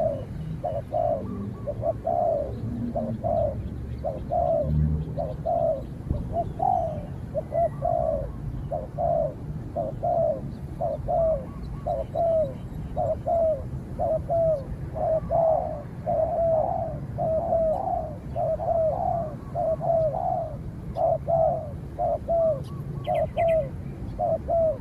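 Spotted doves cooing over and over, a steady run of short, falling coo notes about one or two a second. A small bird chirps briefly near the end.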